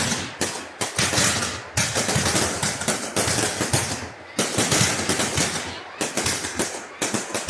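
Fireworks display: dense, rapid crackling and popping in one burst after another, each under a second long, with brief lulls between them.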